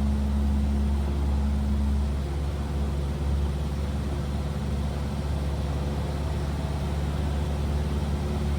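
Cessna 172R's four-cylinder Lycoming engine droning steadily in the cockpit in flight, its pitch dropping slightly about two seconds in.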